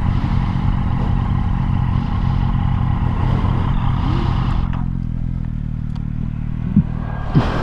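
Motorcycle engine running with wind rush while riding, settling to a steadier, quieter running note about five seconds in.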